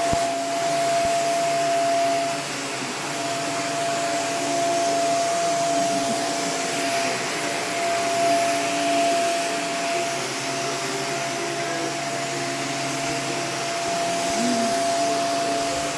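Vacuum cleaner running steadily: a continuous rush of air with a steady whine.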